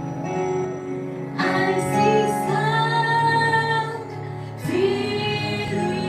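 Music: a woman singing long, held notes over soft, steady instrumental backing, with new phrases coming in about a second and a half in and again near five seconds.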